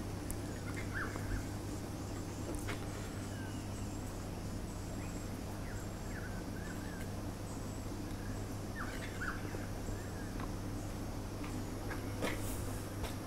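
Faint, scattered bird chirps over a steady low hum, with a few light clicks.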